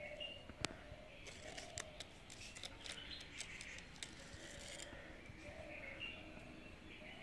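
Faint outdoor ambience of birds calling and chirping in short calls, with several sharp clicks, the loudest about half a second in.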